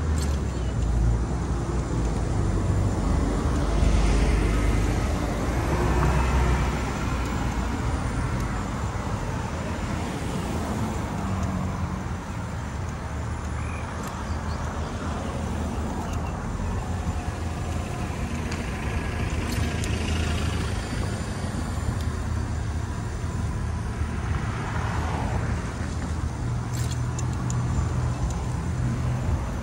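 Street traffic: a steady wash of road noise, with cars passing by about four seconds in and twice more near the end.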